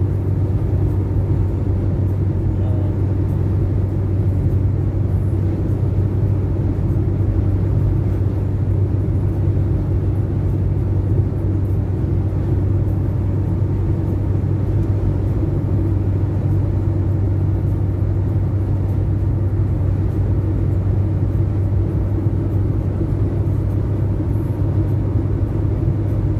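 Steady low rumble of a motor vehicle, engine and road noise running evenly with no change.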